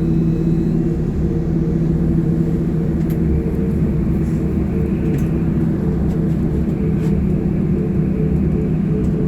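Sinara-6254 trolleybus running, heard from inside the cabin: a steady hum of its electric traction drive with several held tones over road rumble, and a few faint clicks.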